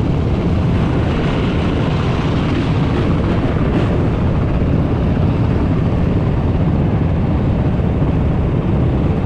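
Dirt bike and ATV engines running in a group ride: a loud, steady, dense rumble with no single engine standing out.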